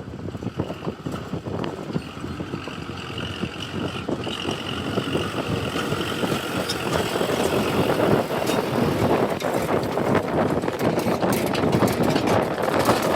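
Diesel engine of a JCB 3DX backhoe loader running while it works, getting louder from about halfway through, with a faint high whine in the first half.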